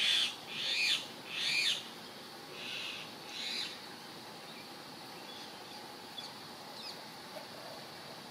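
A bird calling nearby: five harsh, rasping calls in the first four seconds, each about half a second long, followed by a few faint ticks.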